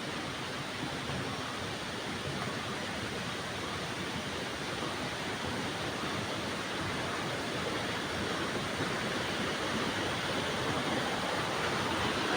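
Waterfall rushing steadily: a dense, even hiss of falling water that grows slightly louder toward the end.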